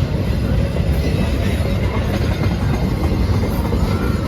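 Train passing close by: a loud, steady rumble of wheels running on the track.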